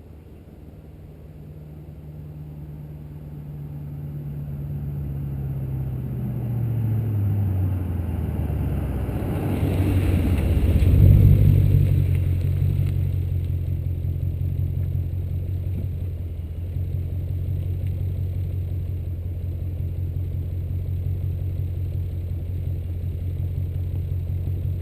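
Chrysler 300 SRT-8's 6.1-litre Hemi V8 through a Magnaflow exhaust: the car approaches, getting louder as the engine note drops, is loudest about eleven seconds in, then settles into a steady low idle rumble.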